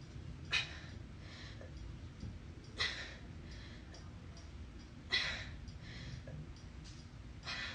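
A person exhaling sharply in a steady rhythm while exercising, four hard breaths about two and a half seconds apart, one per repetition.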